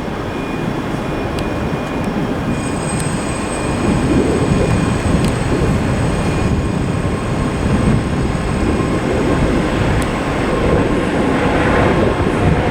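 A pair of Class 385 electric multiple units arriving into the platform: a steady rumble that grows louder about four seconds in, with a high-pitched whine from about two and a half seconds in.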